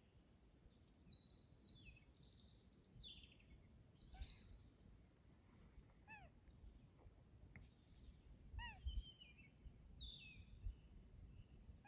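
Faint birdsong. Several high, quickly falling trilled phrases and a few short arched call notes come from songbirds, with a few low thumps, the loudest near the end.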